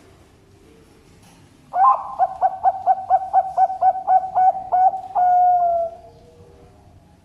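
Zebra dove (perkutut) singing one full song. A quick run of about a dozen short cooing notes, roughly four a second, ends in one long, slightly falling final coo.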